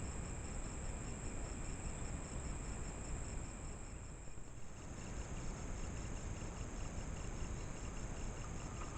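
Insects trilling steadily at a high pitch over low hiss and rumble from the trail camera's microphone. About halfway through, the sound briefly dips and the insect pattern changes, with a second, lower pulsing trill joining.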